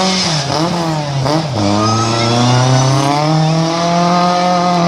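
Old rally car's engine under hard throttle. Its pitch dips twice in the first second and a half, like quick gear changes or throttle lifts, then climbs slowly and steadily as the car pulls.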